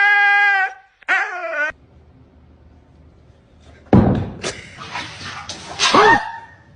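A dog vocalising. A long steady howl-like note breaks off about a second in and is followed by a short falling whine. After a quiet stretch comes a loud, noisy burst of yelps.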